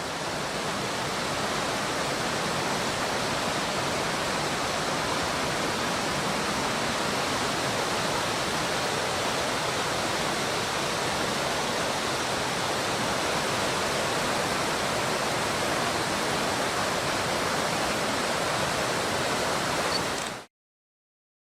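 Rushing water of the Oirase mountain stream's Ashura-no-nagare rapids, a steady, even rush that cuts off suddenly near the end.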